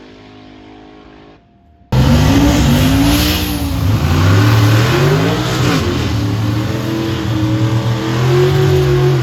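A car engine revving again and again, its pitch rising and falling, starting abruptly and loud about two seconds in after a steady engine hum and a brief lull.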